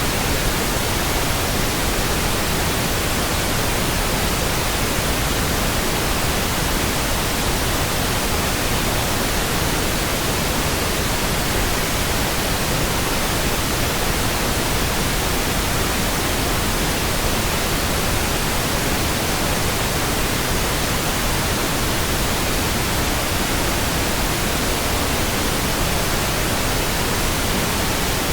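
Steady synthetic pink noise: an even, constant hiss spread across all frequencies, with no changes or events.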